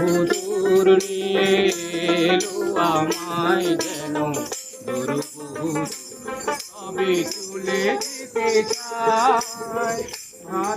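A local street singer singing a folk song, the voice wavering in pitch, accompanied by a rattle shaken in a steady rhythm.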